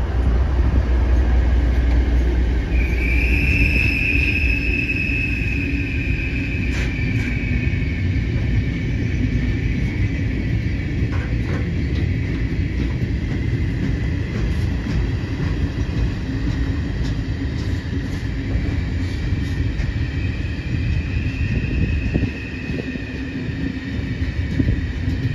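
Freight train of flatcars hauled by a Vossloh DE 12 diesel-electric locomotive rolling slowly past with a steady low rumble. A long, high wheel squeal rises a few seconds in and again near the end, and a few sharp clacks of wheels over rail joints sound in the middle.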